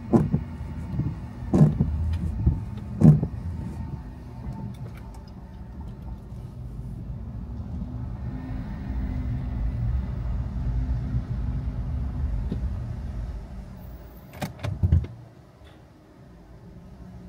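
Car running, heard from inside the cabin: a low engine and road rumble with a few sharp knocks early on, the level rising in the middle. Near the end come a couple of sharp clicks, and the rumble then drops away to a low hum.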